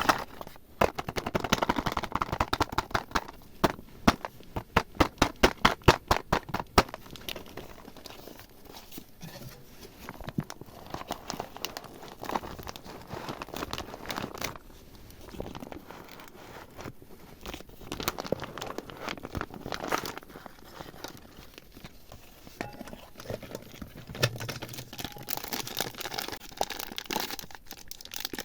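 Crinkling and clicking of small plastic items being handled for slime ASMR, with a run of sharp taps, about three a second, from about four to seven seconds in.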